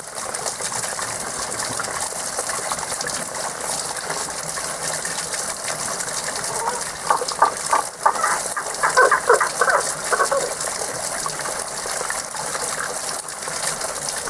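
Spring water gushing steadily, with unseen frogs calling: a burst of rapid, repeated mid-to-high-pitched calls about halfway through that lasts a few seconds.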